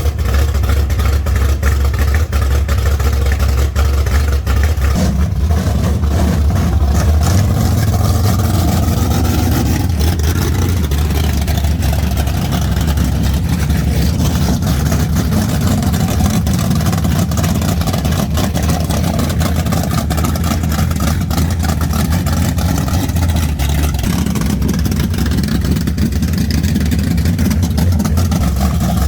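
Car engine running steadily with a deep rumble, its pitch shifting a couple of times in the first several seconds.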